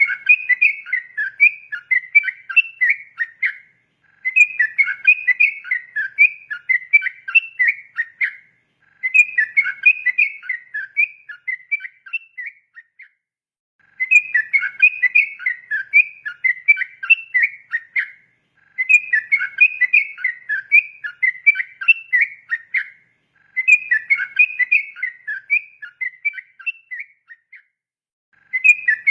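Yellow-vented bulbul (trucukan) singing a rapid, bubbly chattering song in phrases of about four seconds, separated by short pauses of about a second.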